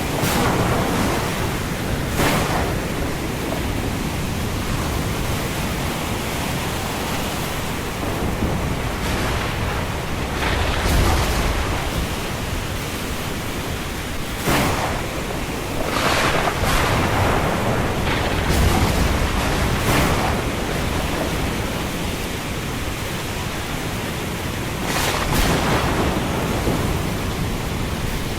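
Thunderstorm: a steady rush of wind and rain, broken by several sharp cracks of thunder and a couple of low, deep rumbles.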